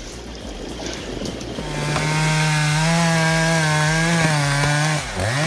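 Chainsaw engine running at high revs with a steady whine. Near the end the revs drop sharply and climb straight back up as the throttle is let off and opened again. Before the engine note comes in there is a rushing noise.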